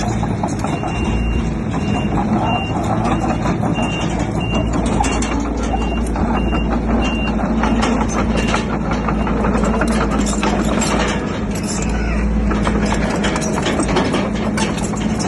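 Bulldozer's diesel engine running steadily with scattered clanking, while a reversing alarm beeps about twice a second through the first half, then stops.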